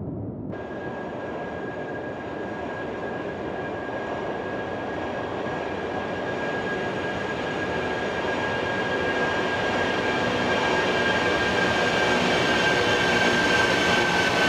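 Jet airliner engines running with a steady high whine over a broad rush, growing slowly louder. The sound changes abruptly about half a second in.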